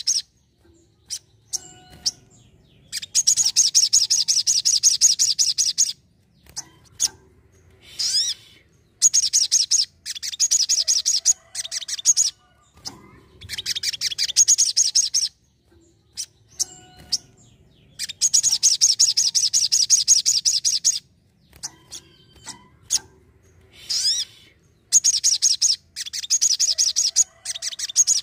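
Sogon sunbird singing: repeated fast, high trilling phrases of about three seconds each, separated by short pauses, with a few brief rising sweeps between them.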